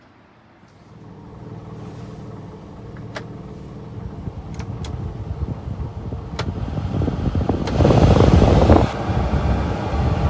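1997 Honda Acty truck's small three-cylinder engine running and growing steadily louder, with a few sharp ticks and a louder rushing surge about eight seconds in.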